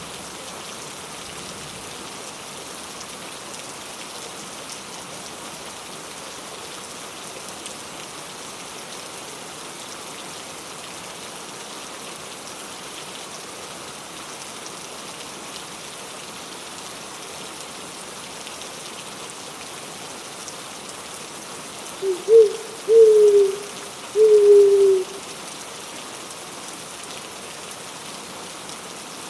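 Steady rain falling. Near the end a bird gives four short hooting calls, louder than the rain, the last one the longest.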